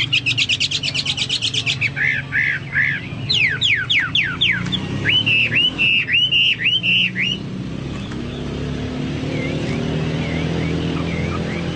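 Chinese hwamei singing a loud, varied song: a rapid trill, three arched notes, a string of fast downward-sweeping whistles, then a run of hooked notes. The song stops about seven seconds in, leaving a low steady rumble with faint chirps.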